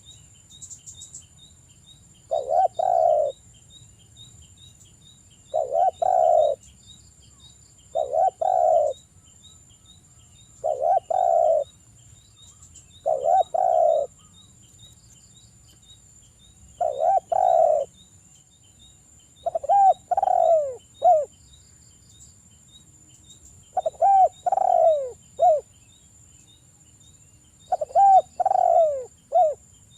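Derkuku (spotted dove) cooing: a string of short, low phrases of two or three notes each, repeating every few seconds, the later phrases with clearer falling notes.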